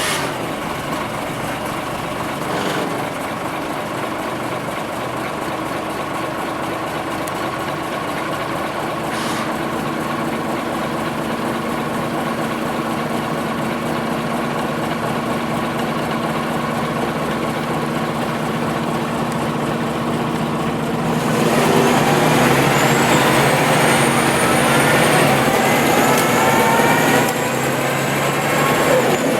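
Scania OmniLink CL94UB city bus diesel engine idling steadily. About 21 seconds in it grows louder and the bus pulls away, with rising whines as it gathers speed.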